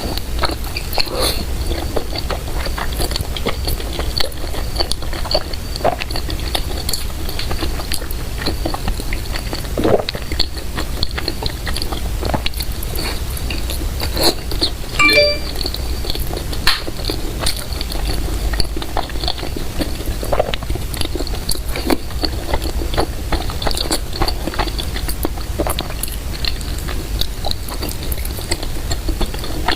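A person chewing and biting food close to the microphone: irregular wet clicks and smacks of the mouth over a steady low hum.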